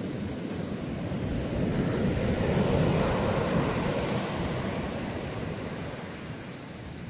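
Ocean surf: a wave builds to a peak about three seconds in, then washes back and subsides.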